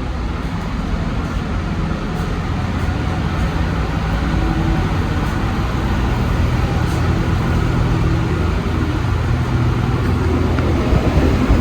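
Interior running noise of an Alstom NS-74 rubber-tyred metro train travelling between stations: a steady rumble with a low motor hum that grows slightly louder through the middle.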